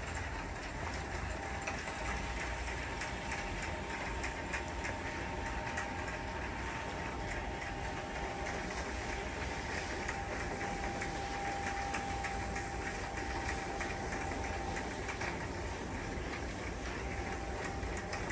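Motorized curtain track running steadily as the curtains close, a continuous motor hum with a thin whine that fades out near the end.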